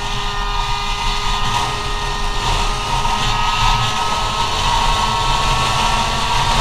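Go-ped scooter's CR70 two-stroke engine running at steady high revs under way, its pitch holding level, with a low rumble underneath.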